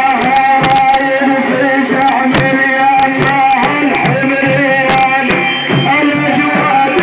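A male praise singer chanting a Prophetic praise song in long, held, ornamented lines, over frequent hand-drum strikes.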